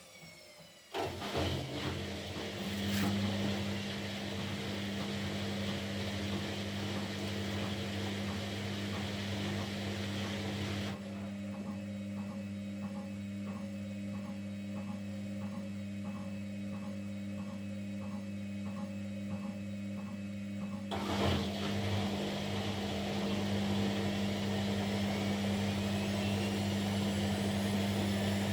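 Kunft front-loading washing machine running at speed, its motor giving a steady low hum with a whirring drum, typical of a spin phase. For about ten seconds in the middle it goes quieter with a soft rhythmic beat, then the fuller whir returns and a rising whine comes in near the end.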